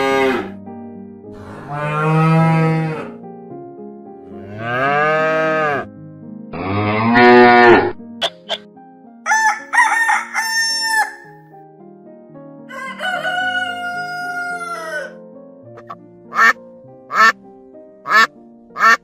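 Cattle mooing, four long calls one after another, then a rooster crowing twice, then a duck quacking in four short calls near the end, over soft background music.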